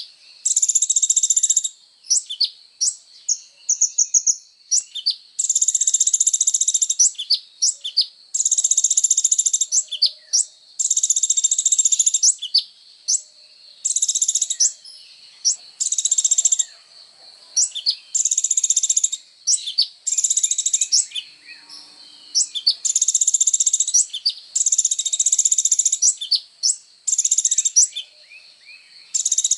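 A kolibri ninja sunbird singing hard: high, fast, buzzing trills of about a second each, repeated every second or two, with short sharp chirps between them.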